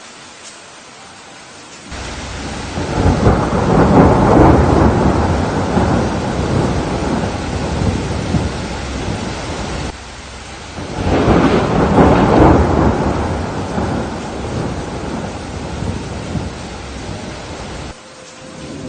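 Steady rain with two long rolls of thunder. The first rumble swells about two to three seconds in and dies away slowly; the second swells about eleven seconds in and fades the same way. The louder stretches start and stop abruptly, as if cut in.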